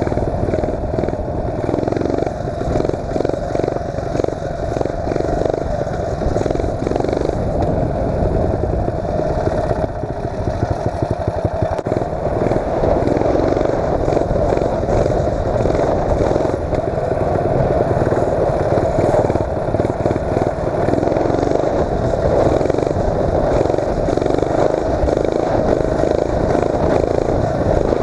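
Mini bike's 8 hp Tecumseh single-cylinder four-stroke engine running loud under load as the bike is ridden, its revs rising and falling.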